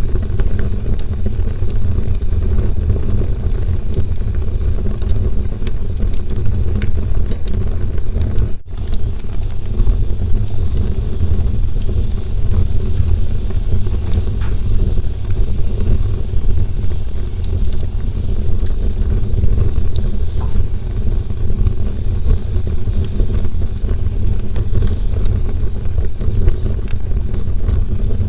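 Campfire burning, with a steady low rumble and scattered sharp crackles and pops throughout. The sound drops out for an instant about eight and a half seconds in.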